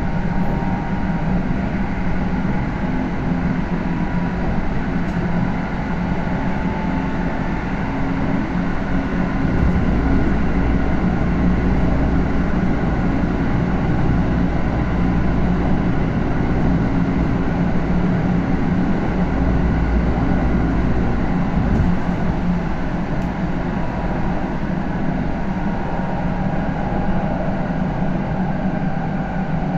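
A Kintetsu electric train with GTO-inverter traction equipment, running at a steady speed and heard from inside the car: a steady rumble of wheels on the rails, with a constant hum.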